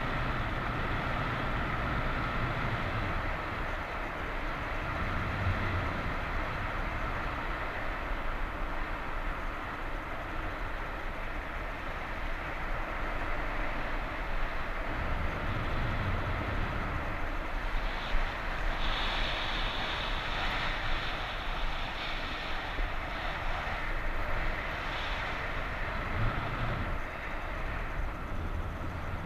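Strong wind rushing over the microphone in flight, a steady noisy rush with low rumbling swells every several seconds.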